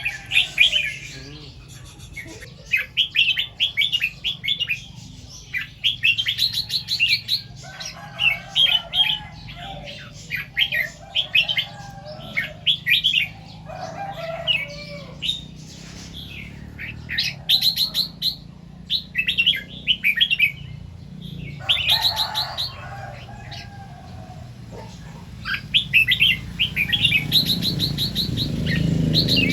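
Red-whiskered bulbul singing in short, quick, chirpy phrases, one burst every second or two with a few brief pauses. A low rumble rises underneath near the end.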